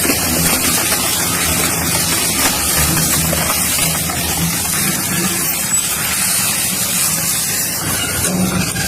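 A crushing machine running steadily, a loud continuous mechanical noise with a low hum underneath.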